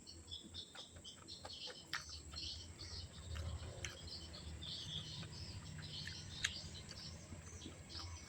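Close-up chewing and crunching of food, with crackly bursts and scattered small clicks, and a low rumble that swells in the middle.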